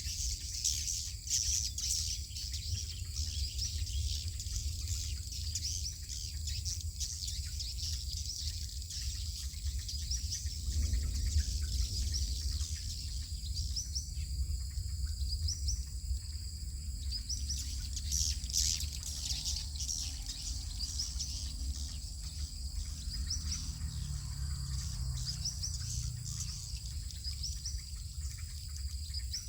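Swiftlets twittering: many short, high chirps in quick succession, thickest near the start and around the middle, over a steady high insect drone and a low rumble.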